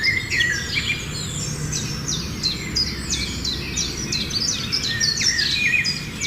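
Several small finches chirping over one another, a busy stream of quick high notes that sweep downward, over a steady low background hum.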